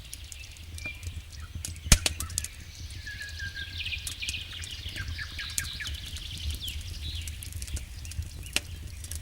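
Wood fire in a fireplace crackling, with irregular sharp pops, one louder pop about two seconds in, over a steady low rumble.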